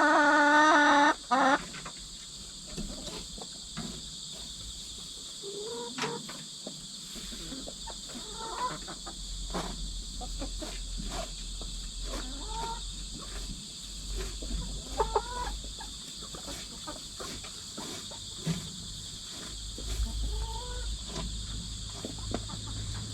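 Domestic hens: one loud, drawn-out squawk right at the start, then soft, scattered clucks and short calls. Steady insect chirring runs underneath.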